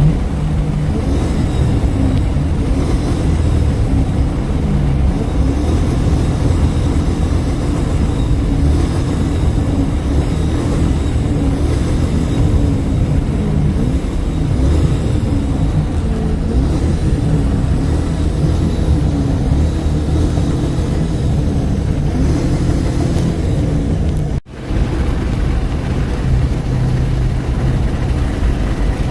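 V8 car engine and exhaust giving a steady low rumble while the car is driven, with no clear revs. The sound drops out for an instant about 24 seconds in.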